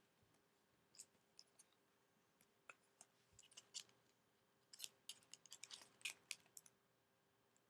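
Faint crackles and crisp clicks of a sheet of origami paper being handled and folded, coming in short clusters.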